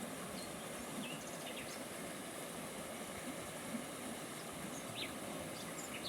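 Outdoor forest ambience: a steady hiss of wind, with a few short, high bird chirps scattered through it.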